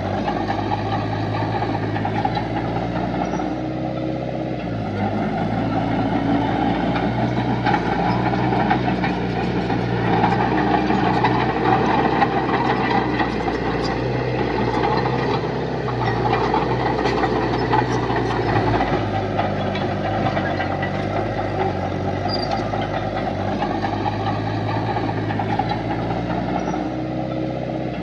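Heavy construction machinery's diesel engine running steadily, working a little harder in the middle, with a few light clanks.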